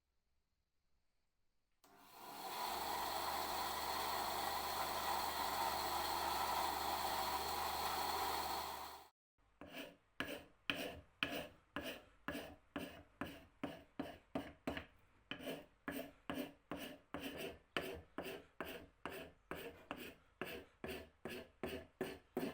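A power tool runs steadily for about seven seconds and then cuts off. Wood is then worked by hand in quick, even strokes, about two a second, with an abrasive, rasping sound.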